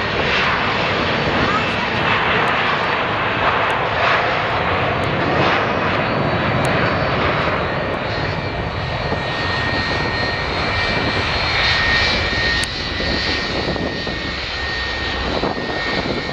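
Airbus A340-313X airliner's four CFM56 turbofan engines, a loud steady rushing noise with a thin high whine in the later part, easing slightly toward the end.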